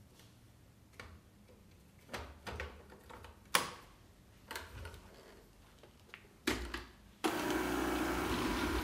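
A few separate clicks and knocks, then about seven seconds in the Kärcher K 55 Plus cordless sweeper switches on abruptly and runs with a steady motor whir.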